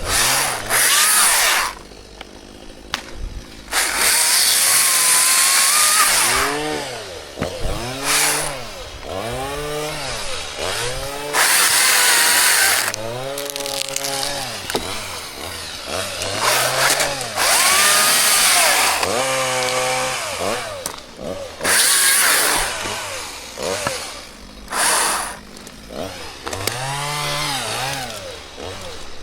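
Chainsaw revving up and down over and over, with several loud full-throttle bursts of a second or more while it cuts into birch wood.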